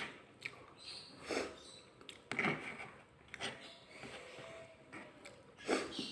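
A person eating spicy instant noodles in broth close to the microphone: irregular slurps and chewing, a short sound about every second.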